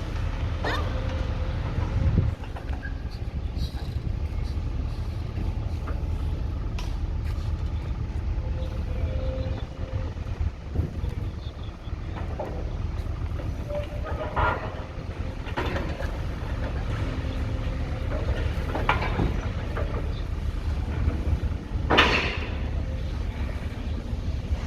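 Heavy demolition machinery running with a steady low engine rumble. Intermittent clanks and crashes of debris come through it, the loudest about two seconds in and near the end.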